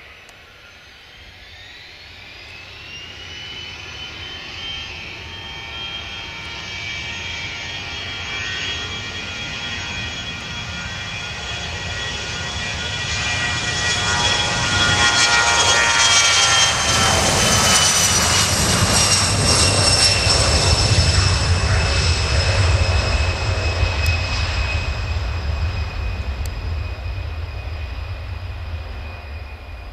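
A jet airliner's turbofan engines spooling up, their whine rising in pitch over the first few seconds. The sound then grows louder into a deep rumble that peaks about halfway through as the aircraft passes, with the whine dropping slightly in pitch and fading toward the end, typical of a takeoff.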